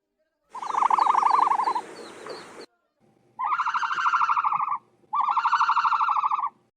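Ostrich calls: three buzzy, rapidly pulsing calls, the first about two seconds long with faint high chirps over it, then two shorter ones of about a second and a half each with a short gap between.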